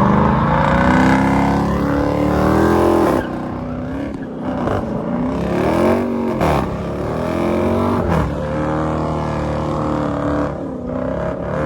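Car engine revving hard while drifting. The pitch climbs for about three seconds, drops off suddenly, then rises and falls again and again as the throttle is worked.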